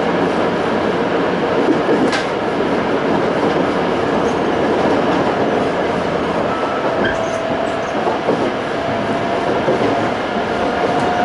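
Onboard running noise of a Toei 5300 series electric train at speed: steady wheel and rail rumble with a sharp rail-joint click about two seconds in. A thin motor tone comes in partway through and climbs slightly.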